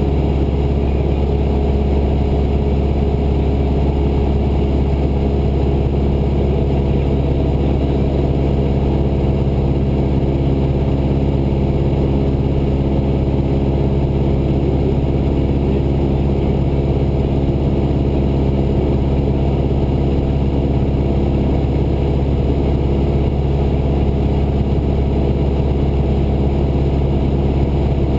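Cessna 172's piston engine and propeller running steadily at a constant power setting in flight, a loud unbroken drone heard from inside the cabin.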